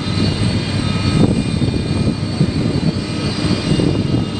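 Antonov An-225 Mriya's gas turbines running, a steady whine of several high tones over a low rumble.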